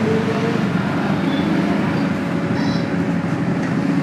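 Steady motor vehicle noise: a low engine hum under an even rush of road and wind noise.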